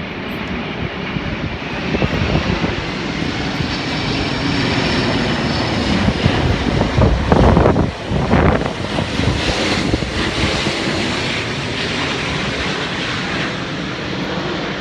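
Airbus A350-941's Rolls-Royce Trent XWB jet engines roaring as the airliner lands close by, loudest with a heavy rumble about seven to eight seconds in, then a hissing roar that slowly fades.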